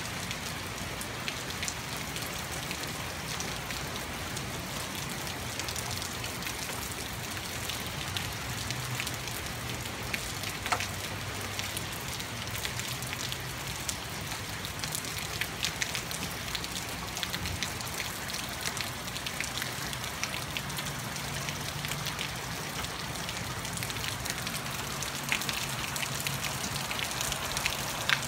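Heavy rain falling steadily: a hiss of rain, dotted with the sharp ticks of single drops hitting a surface and a few louder taps, over a low steady rumble.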